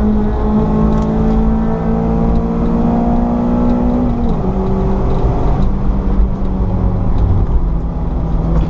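Citroen C4 VTS engine pulling hard on a race track, its note climbing steadily for about four seconds, then dropping at once and holding roughly level. A heavy low rumble runs underneath throughout.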